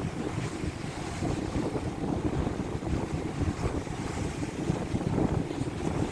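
Strong wind buffeting the microphone in gusts, with heavy surf from the sea beneath it.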